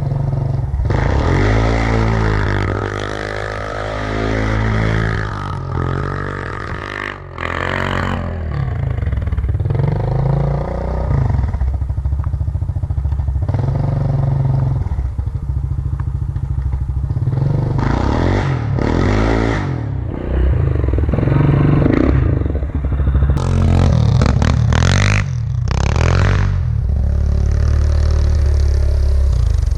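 Yamaha Grizzly 700 ATV's single-cylinder engine running hard, its pitch rising and falling again and again as the throttle is worked through snow.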